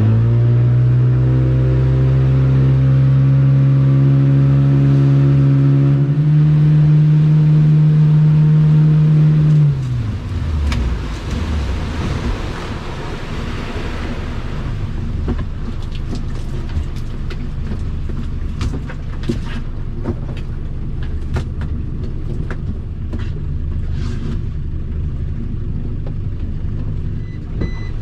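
A small boat's engine running at a steady pitch, stepping up a little about six seconds in, then falling away in pitch and dying down around ten seconds in. After that come wind and water noise with scattered knocks and clicks.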